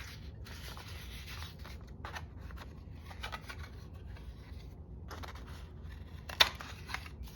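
Paper being handled in short rustling spells, with a sharp click about six and a half seconds in.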